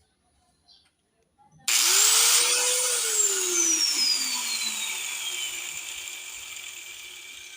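Small grinder's motor starting up about two seconds in, whining up to speed within a fraction of a second, holding for about a second, then winding down with a falling whine as it coasts to a stop.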